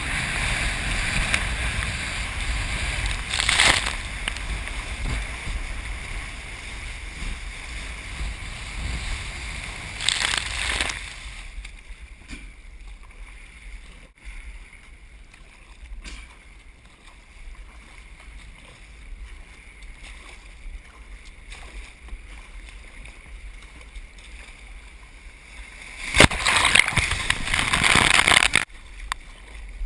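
Rough ocean surf and wind, with loud rushing surges of water a few seconds in, about ten seconds in, and a longer one near the end.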